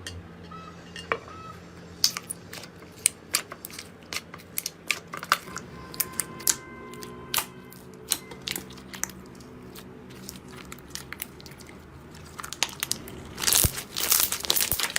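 Slime being squeezed and worked by hand, giving scattered sharp clicks and crackles that become a dense run of crackling near the end.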